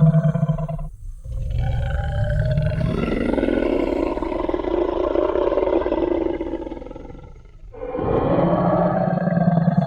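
Designed Tyrannosaurus rex roar sound effect: one roar ends about a second in, a long roar of about six seconds follows, and another begins about eight seconds in.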